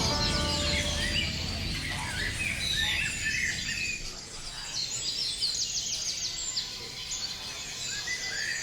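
Birds chirping and singing: many short, overlapping calls in a dense chorus.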